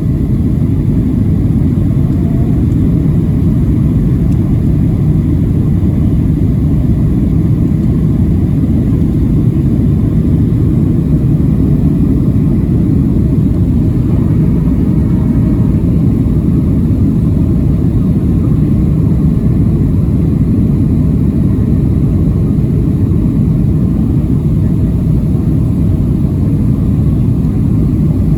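Steady low rumble of engine and airflow noise inside the cabin of a Boeing 737-700 in flight on approach.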